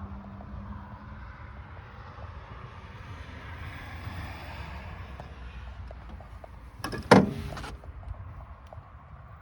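Yanmar AF26 compact tractor's diesel engine running with a steady low rumble, and a sudden loud clunk about seven seconds in.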